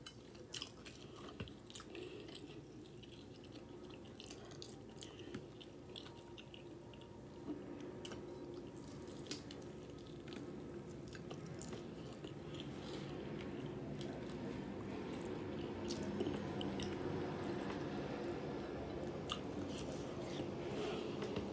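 Close-up chewing and biting of fried chicken, with many short wet mouth clicks and crunches scattered through.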